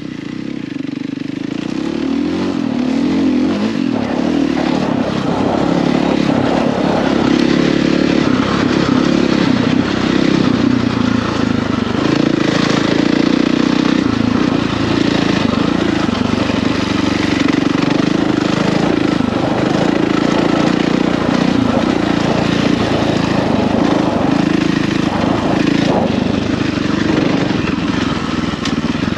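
Husqvarna FE450's single-cylinder four-stroke engine running under load on a dirt bike being ridden. The engine note wavers as the throttle changes, and it picks up over the first couple of seconds, then holds steady.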